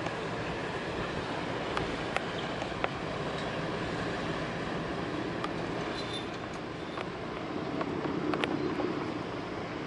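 Steady low drone of a passenger boat's engines under a broad rushing noise, with a few sharp clicks about two seconds in and again near the end.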